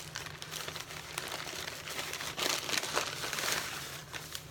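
Paper burger wrapper crinkling and rustling as a Whopper is unwrapped and handled, loudest in the middle.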